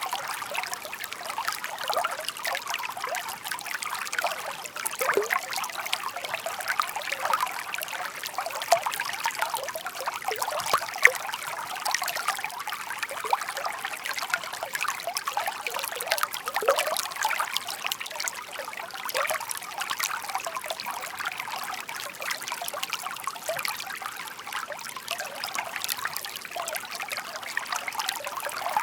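Shallow stream murmuring steadily: water trickling and babbling over stones, a busy continuous sound of many small splashes.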